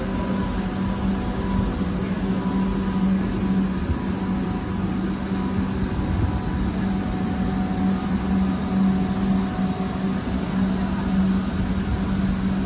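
Steady hum of a stationary Renfe class 130 Talgo high-speed train at the platform: a constant low tone with fainter higher tones over a low rumble.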